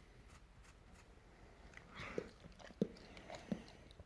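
A dog's faint mouth and breath noises close by: three short, soft smacks about two-thirds of a second apart in the second half, with a brief breathy hiss just before the first.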